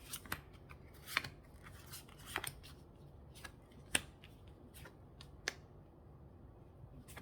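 Tarot cards being handled and shuffled: a string of irregular, sharp card clicks and flicks, coming more often in the first half.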